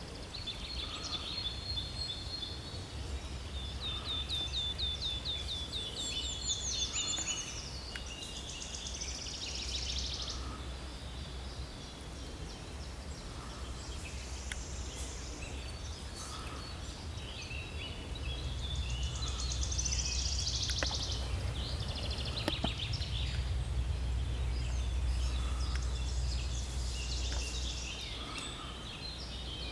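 Forest birdsong: several songbirds singing overlapping high trills and rapid note series, with a fainter lower call repeating about every two seconds. Underneath runs a steady low rumble that grows louder in the second half.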